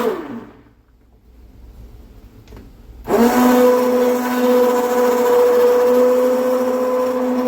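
Immersion blender motor in a pot of thick barbecue sauce: it winds down with a falling whine, and after about three seconds' pause it starts up again and runs with a steady whine, pureeing the still-chunky sauce.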